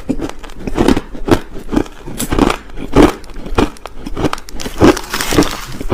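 Crushed ice being bitten and chewed close to the microphone: a run of crisp, loud crunches, about two a second.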